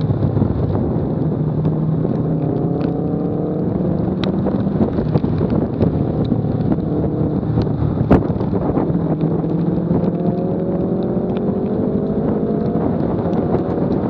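Car engine running at track speed, its pitch climbing twice as the revs rise under acceleration, over steady wind and road noise at a low bumper-mounted camera. A sharp click sounds about eight seconds in.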